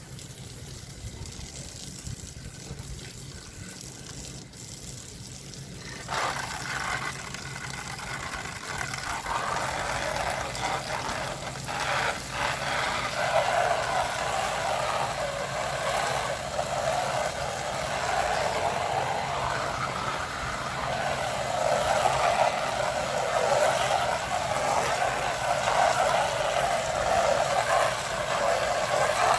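Garden hose with a hose-end sprayer spraying siding cleaner onto vinyl siding. The spray starts abruptly about six seconds in, and the rushing water swells and eases as it moves over the wall.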